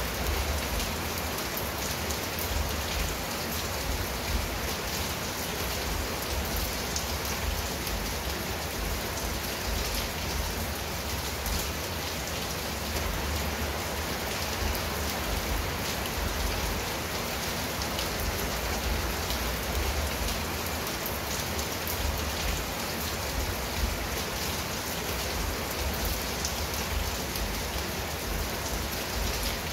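Steady heavy rain falling on a clay-tiled roof and garden foliage, a dense hiss full of small drop ticks, over a low fluctuating rumble.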